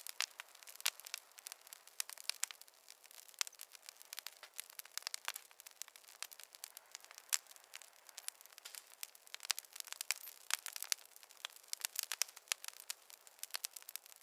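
Wood fire crackling in a fireplace: a dense, irregular run of small pops and snaps, bright and thin with no low rumble of flame beneath.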